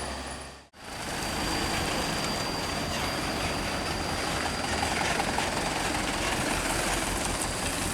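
Heavy road vehicle, a bus or truck, running steadily on the road. The sound drops out sharply for a moment shortly after the start.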